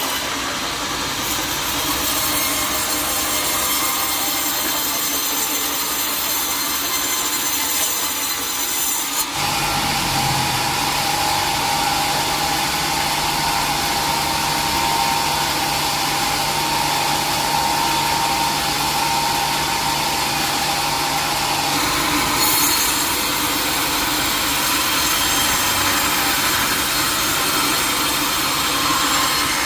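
Sawmill saw cutting through a teak log with a continuous harsh rasping. About nine seconds in the sound shifts as a steady hum and a higher whine join in, and it changes again a little past twenty seconds.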